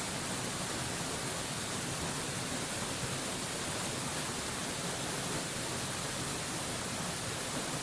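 Waterfall rushing as a constant, unbroken hiss of falling water, heaviest in the high treble, with no change in level.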